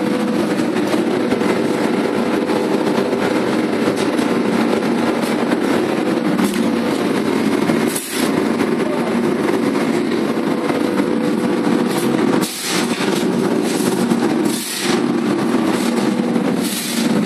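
Electric arc furnace arcing: a loud, steady, rough noise that dips briefly four times.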